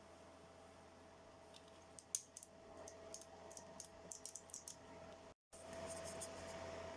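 Faint scattered clicks and light scrapes of parts and tools being handled, over a steady faint hum. The clicks come in the middle few seconds, and the sound cuts out for a moment about five seconds in.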